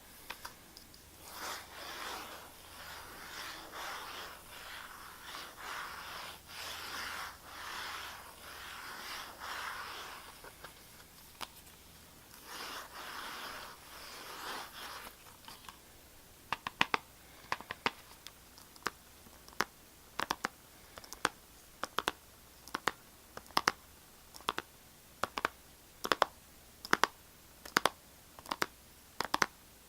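ASMR scratching on a hard surface in repeated rough strokes, pausing and resuming briefly. About halfway through it gives way to sharp, separate taps, roughly one or two a second, some in quick pairs.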